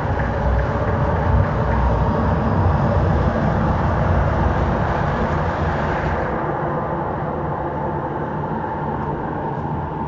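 An MTR East Rail line R-Train electric multiple unit running past at close range, a loud rumble of wheels and running gear. The hiss drops off sharply about six seconds in as the last car passes, and the train then fades into the tunnel.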